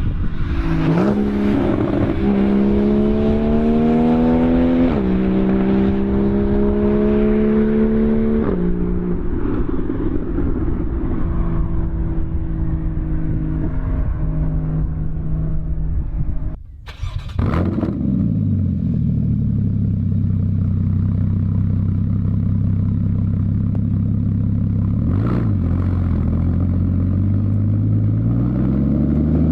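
2015 Porsche Boxster's 2.7 L flat-six through a Fabspeed Maxflo aftermarket exhaust, accelerating hard. The PDK gearbox upshifts twice, with the pitch dropping sharply about five and eight seconds in. The engine then cruises at a steady pitch, cuts out briefly around the middle, drones lower and rises again under acceleration near the end.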